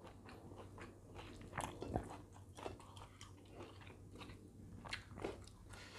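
Faint chewing of a mouthful of food, with soft wet mouth smacks and small clicks, a few slightly louder ones about two seconds in and again past five seconds.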